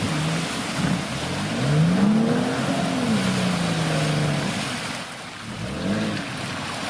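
Off-road SUV engine revving up and easing off under load: the engine note climbs for about a second and a half, falls back and holds, then rises and drops again briefly near the end, over a steady rushing noise.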